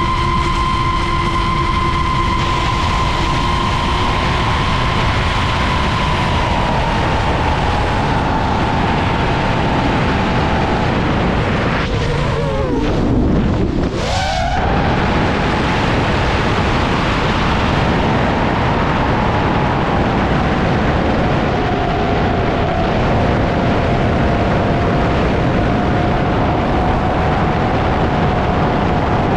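FPV quadcopter's brushless motors whining over a heavy rush of prop wash and wind. The motor pitch sinks slowly, swoops sharply down and back up about twelve to fourteen seconds in, then settles into a steady, slightly lower whine.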